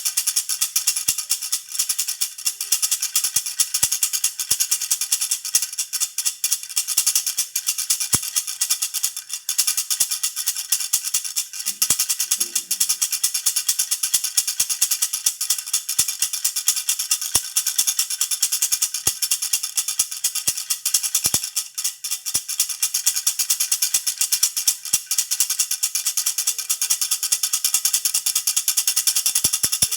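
Jhunjhuna baby rattle toy shaken rapidly and continuously, giving a steady, bright jingling rattle.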